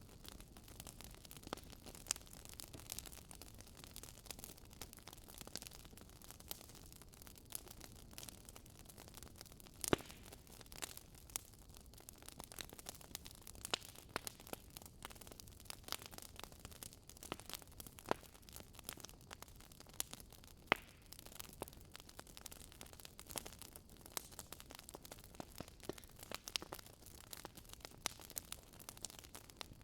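Wood fire crackling: irregular sharp pops and snaps over a faint steady hiss, with a louder pop about ten seconds in and another about twenty-one seconds in.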